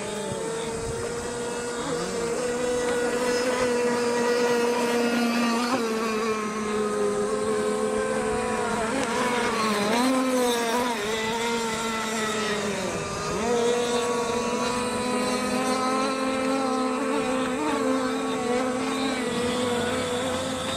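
Gasoline-powered RC racing boats' small two-stroke engines screaming at high revs, their pitch wavering and dipping briefly about ten and thirteen seconds in as the throttle is eased through turns.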